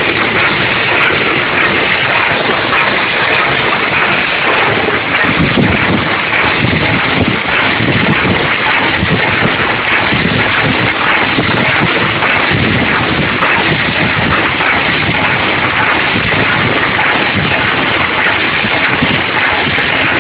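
Snack food weighing and packing machinery running, a loud, steady mechanical noise without pauses.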